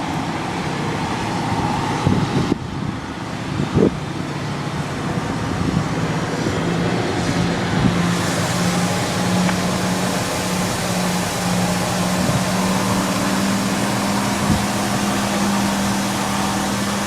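Warship-class diesel-hydraulic locomotive running, a steady engine drone that settles in about six seconds in and grows fuller from about eight seconds, over rough outdoor noise with a few handling knocks early on.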